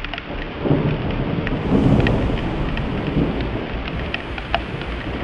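Thunder rumbling right after a lightning flash: it starts under a second in, is loudest around two seconds, then dies away. Steady rain with scattered sharp drop ticks runs underneath.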